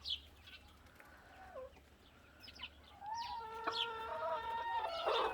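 Chickens clucking and squawking briefly, then about three seconds in a rooster crows: one long call of nearly two seconds. A rough, noisy burst comes right at the end.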